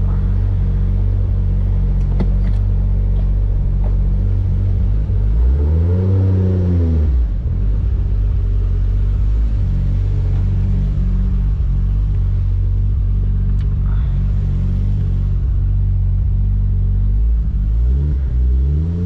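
Toyota Supra MK4's turbocharged 2JZ inline-six running at a steady low speed, revved up and back down once about six seconds in, and again near the end.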